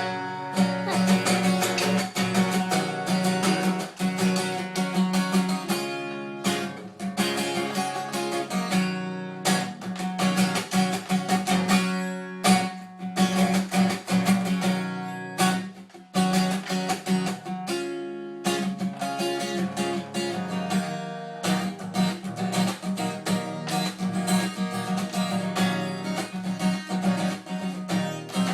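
Acoustic guitar played in a jam, with strummed chords and picked notes and a low note held under most of it.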